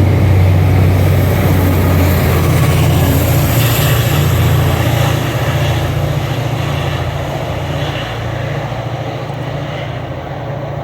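A train running past close by: a loud, steady low rumble with rushing wheel and rail noise that slowly fades away over the last several seconds.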